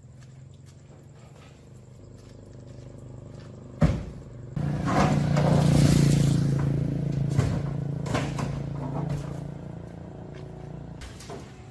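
A motor running steadily, with a sharp knock about four seconds in; soon after, it grows louder, then slowly fades.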